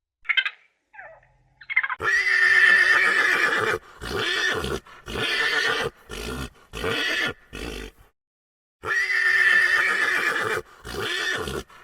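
An animal calling repeatedly with a wavering pitch: a few faint short calls at the start, then a long loud call of about two seconds, a run of four shorter calls, a brief pause, another long call and a shorter one.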